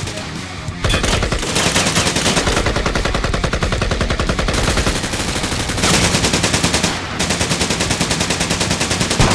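Sustained bursts of rapid automatic gunfire, starting about a second in and broken by a few short pauses.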